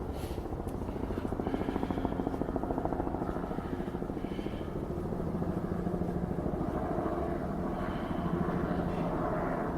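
An engine running steadily with a fast, even pulsing beat, its pitch shifting slightly up and down.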